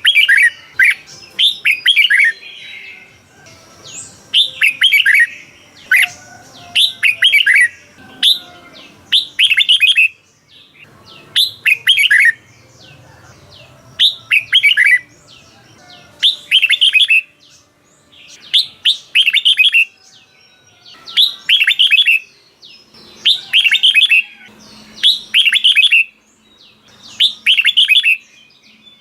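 Red-whiskered bulbul singing: short, bright phrases of a few quick notes, repeated every second or two.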